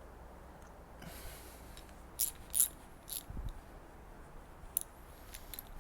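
A few short sharp clicks and light scrapes of hands and parts being handled on the hedge trimmer's engine as the spark plug boot is worked off.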